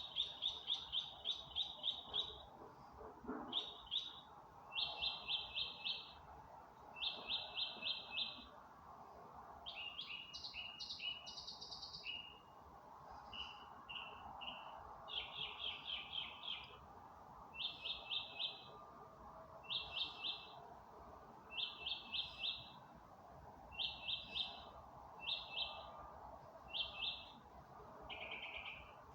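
A songbird singing at night: a long string of short phrases, each a quick run of the same note repeated for about a second, separated by brief pauses and changing pattern from phrase to phrase.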